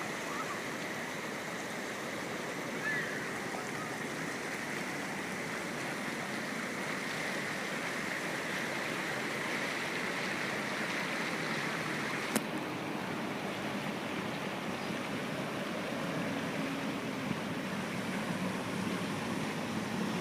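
Rushing water of a seasonal wadi stream running in spate after rain, a steady rush. A single sharp click about twelve seconds in.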